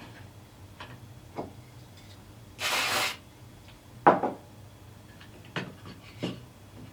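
Hand tools and a wooden workpiece being handled on a workbench. One short scraping stroke comes about three seconds in, then a few knocks, the loudest about four seconds in.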